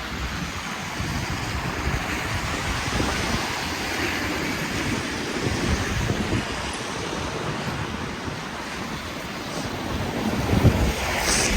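Wind gusting against the microphone over a steady outdoor rush, growing louder near the end.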